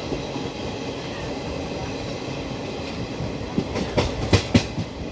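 Indian Railways express train passing, its wheels running steadily on the rails, with four or five sharp clacks over rail joints about three and a half to four and a half seconds in.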